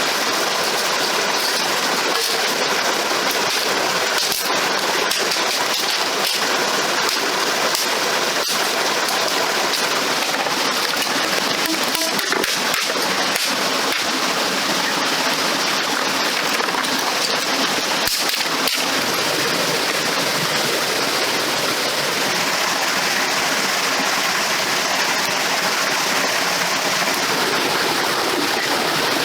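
Steady rushing water, an even unbroken hiss with scattered small ticks and splashes.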